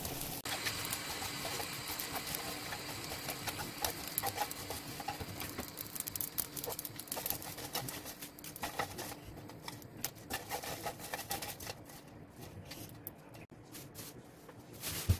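Pollack skin crackling and sizzling in a hot nonstick pan over high heat as it crisps, with wooden chopsticks clattering and scraping against the pan as it is tossed. The quick crackle thins out over the last few seconds, and a single louder knock comes right at the end.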